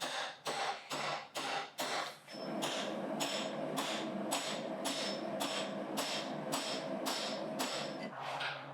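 Hammer striking a blacksmith's chisel to split a steel bar, in even blows about two to three a second.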